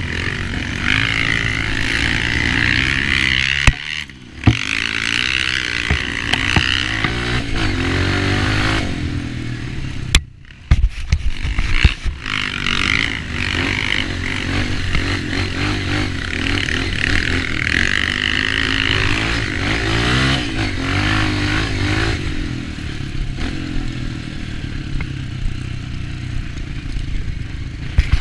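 Dirt bike engine running and revving up and down, with clattering and scraping from the ride over rough ground. The sound drops sharply for a moment twice, about four and ten seconds in.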